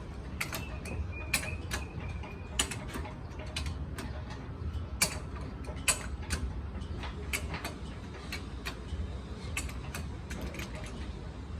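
Irregular sharp metallic clicks and clinks of hand tools working on diesel engine parts, a few louder than the rest, over a steady low hum. A faint high squeak sounds briefly near the start.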